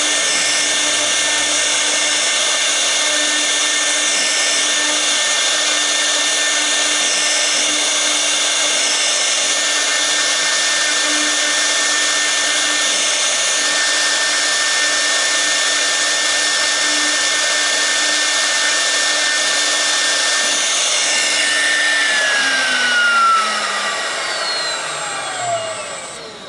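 A CNC router's 6 kW air-cooled spindle whining steadily at a constant pitch while a V-bit carves the workpiece. About 22 seconds in, the whine starts to fall in pitch and fade as the spindle spins down.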